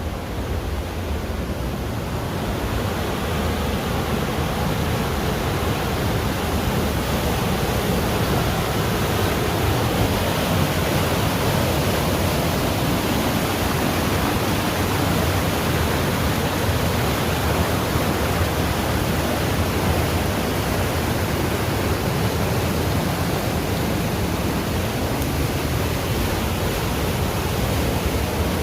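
Waterfall: a steady, even rush of falling water that grows a little louder over the first few seconds.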